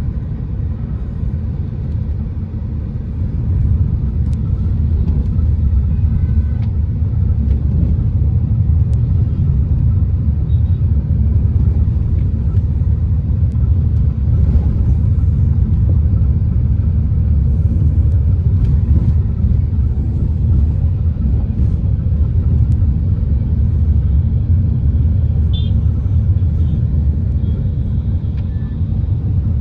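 A car driving on a road: a steady low rumble of engine and tyre noise, growing louder about three seconds in and then holding steady.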